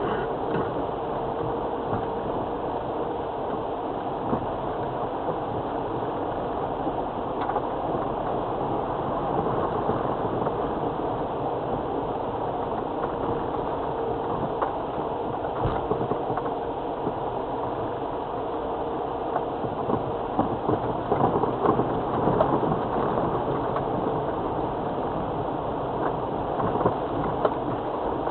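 Steady in-car noise of a 2002 Land Rover Freelander TD4's diesel engine and its tyres running slowly over a wet, rough green lane, with a few short knocks from the body along the way.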